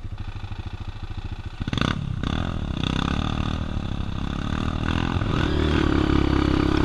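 Dirt-bike engine ticking over with a slow, even pulse, then opening up under throttle about a second and a half in and running harder, getting louder toward the end.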